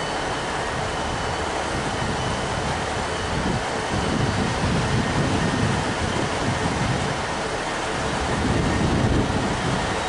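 Diesel multiple unit train standing at a station platform with its engine idling, a steady low rumble that swells slightly a few seconds in and again near the end.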